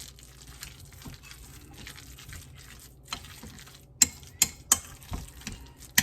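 A spoon stirring a wet tuna-and-mayonnaise mixture in a bowl, with soft squelching and small clicks, then several sharp knocks of the utensil against the bowl from about four seconds in.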